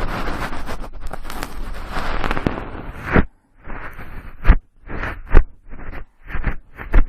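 Cotton swab rubbing and swirling close against the ear of a binaural microphone: a continuous scratchy rubbing for about three seconds, then a string of short separate strokes with a few sharp, loud scrapes.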